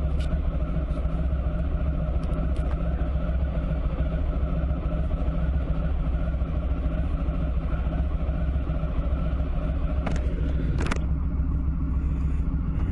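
Motorcycle running steadily on the move, a continuous low rumble of engine and road noise. Two short clicks come near the end.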